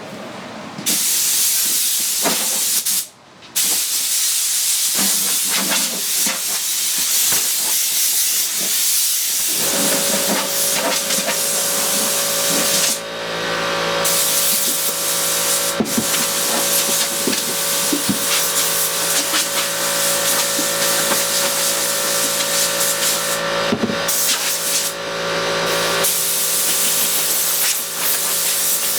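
A loud, steady hissing spray, cut off briefly a few times. About ten seconds in, a steady machine hum starts and runs on under it.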